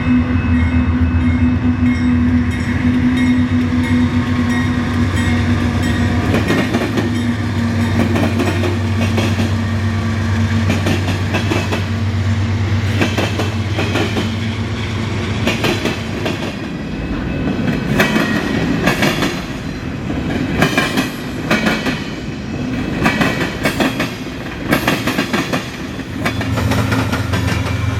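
A train passing on the rails. A steady low rumble gives way, about halfway through, to a run of sharp wheel clacks over the track joints, and the rumble returns near the end.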